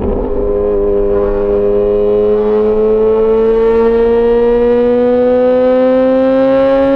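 Yamaha XJ6 S's 600 cc inline-four running through an SC-Project aftermarket exhaust, accelerating steadily in one gear, its pitch climbing slowly.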